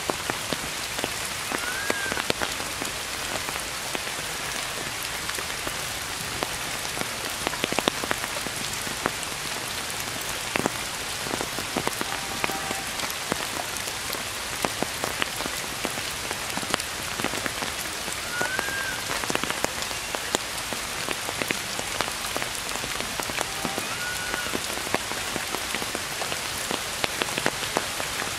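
Steady rain falling on forest foliage, with many close drops striking sharply. A few brief high chirps sound faintly over it.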